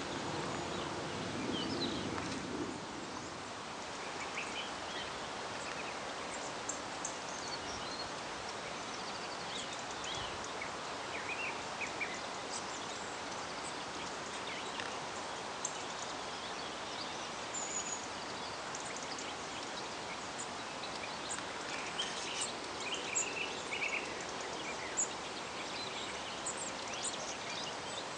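Scattered short bird chirps over a steady background hiss of outdoor ambience.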